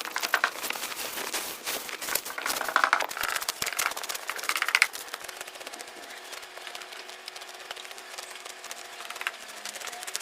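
Hand sickle cutting grass: a dense run of quick snapping cuts and rustling stalks with a few louder strokes, thinning out after about five seconds.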